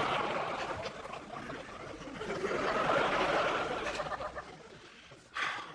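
Studio audience laughing in two swells, building again about two seconds in, then dying away.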